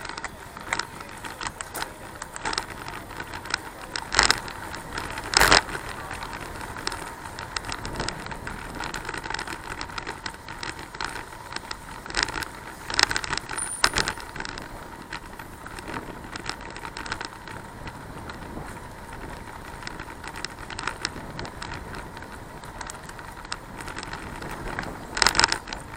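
Bicycle being ridden: the bike and its camera mount rattle and click over the road, with a steady rush of tyre and wind noise. Sharper clattering knocks come about four seconds in, again near five and a half seconds, around thirteen seconds, and near the end.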